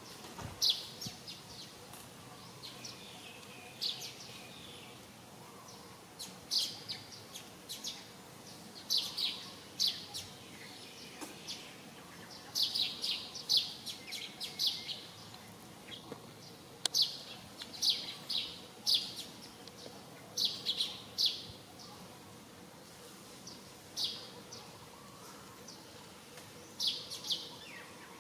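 Small birds chirping: short high chirps in clusters of two to four, recurring every second or two, with a few quieter stretches.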